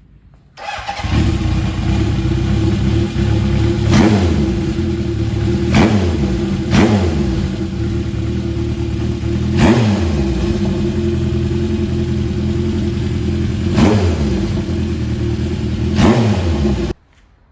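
Honda CB750 Four K4's air-cooled inline-four running through short pipes with baffles fitted. It comes in about half a second in and is blipped about six times, each rev rising and falling back. It stops abruptly just before the end.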